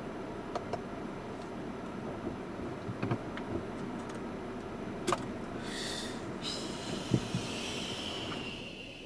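A Subaru Forester SUV rolling slowly down a rough unpaved track: a steady low rumble with scattered sharp knocks and clunks. About six seconds in, a high squeal comes in and slides slowly lower in pitch.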